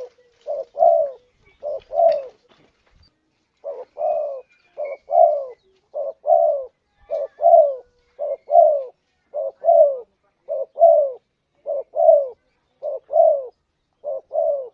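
Spotted dove cooing its repeated two-note 'kuk dua' call, a short note followed by a longer, slightly falling one, about once a second, with a short pause about three seconds in. This is the call of a contest-winning bird.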